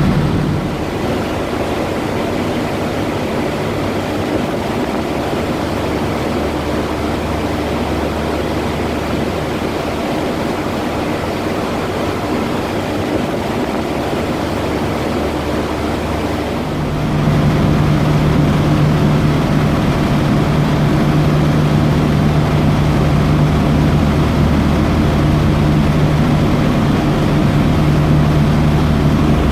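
Passenger ferry's engines running steadily under way: a low, even hum with a steady rushing noise over it. The engine hum gets louder a little over halfway through.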